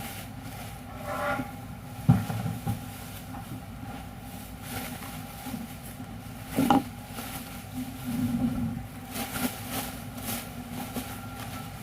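Industrial machine running with a steady hum, broken by a couple of knocks and, near the end, a series of short hisses.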